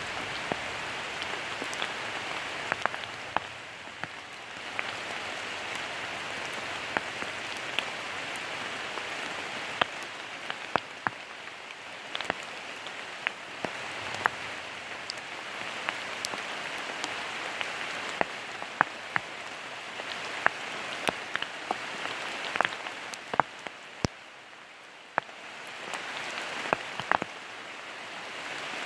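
Steady rain falling, a soft even hiss with many sharp single drips landing close by, several a second. It eases a little twice, once a few seconds in and again towards the end.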